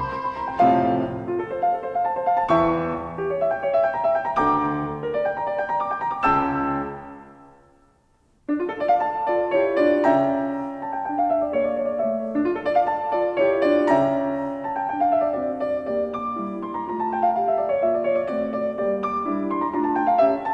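Solo piano music with struck notes that ring and die away. It fades out about seven seconds in, and after a brief silence a new piano passage starts.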